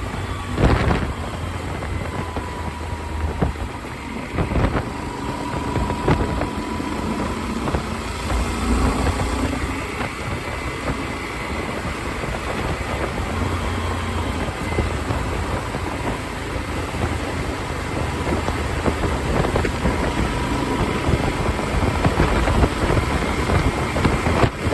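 Motorcycle riding noise picked up by a phone mounted on the rider's helmet: steady wind rush over the microphone, with engine and road rumble underneath.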